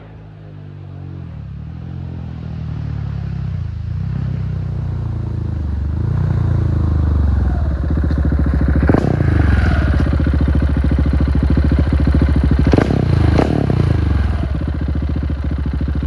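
Husqvarna 701's single-cylinder engine running through its exhaust, growing louder over several seconds as the revs rise and fall, with a sharp crack about halfway through and two more a few seconds later.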